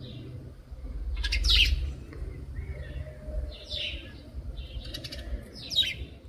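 Birds chirping in short, high bursts, about four in all, the loudest about a second and a half in, over a low rumble.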